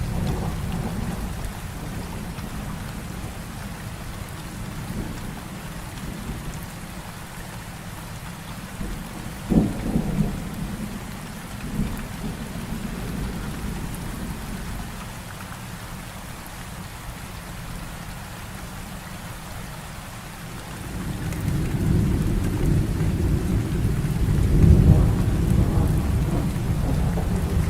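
Heavy rain falling steadily with thunder: a sharp thunderclap and short rumble about ten seconds in, then a long low rolling rumble that builds from about two-thirds of the way through and peaks near the end.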